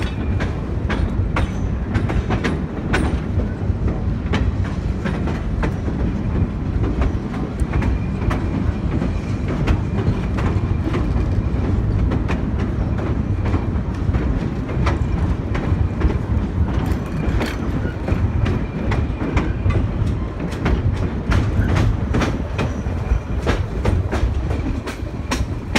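Railway passenger coach riding the rails, heard from on board: a steady low rumble of wheels on track with frequent sharp clicks and clatter as the wheels pass over rail joints.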